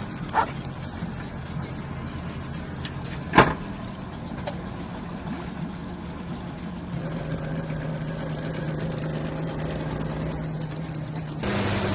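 A boat engine running steadily, its note stepping up about two-thirds of the way through, with one sharp knock a few seconds in.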